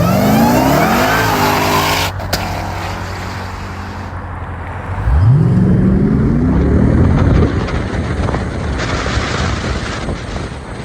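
Car engine revved hard twice, its pitch rising for about two seconds each time, once at the start and again about five seconds later, with a sharp click between the two.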